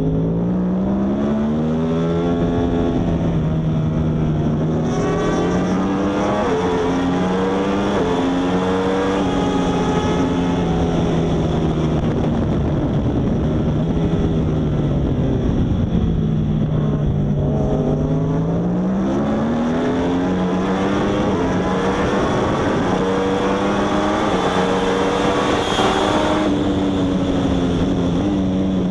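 Yamaha R1 superbike's inline-four engine at racing speed, the revs climbing through the gears and dropping back several times, with a long fall in pitch midway through, the kind that comes with braking and downshifting for a corner.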